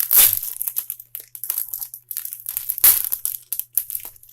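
Packaging being handled, crinkling and rustling in short irregular bursts, with two louder crunches: one at the very start and one about three seconds in.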